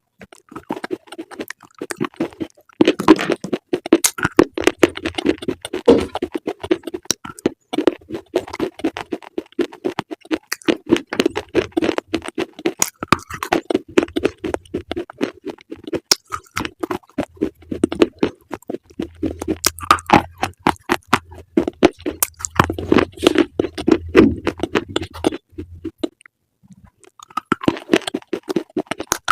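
Close-up crunchy chewing: a dense, steady run of crisp crunches and clicks, which stops for about a second near the end and then resumes.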